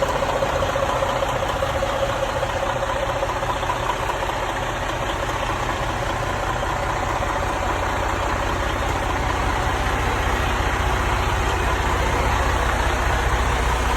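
Diesel engine of a Freightliner semi-truck idling steadily, with a constant low hum.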